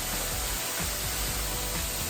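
Waterfall's steady rushing roar of falling water, heard close up from behind the fall.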